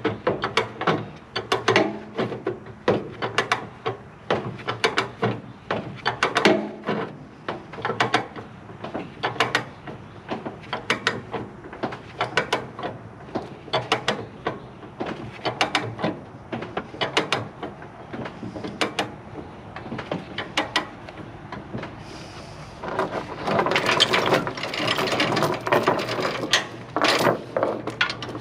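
Ratchet chain binder being cranked tight on a tie-down chain, its pawl clicking in a steady run of sharp clicks, two or three a second. From about 23 s in, the clicks are overlaid by a denser metallic clatter.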